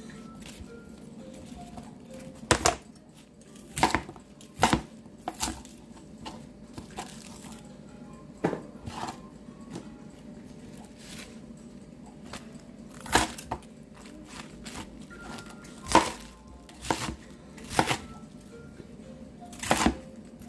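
Sharp, irregular knocks and clicks of kitchen utensils and cookware being handled while food is prepared for sinigang soup, over faint background music.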